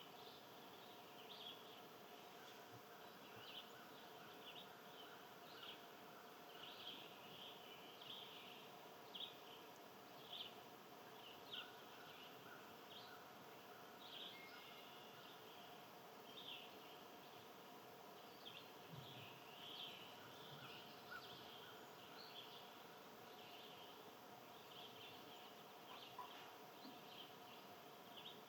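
Faint outdoor ambience of small birds chirping, with many short, high chirps coming at irregular intervals, over a low steady hum.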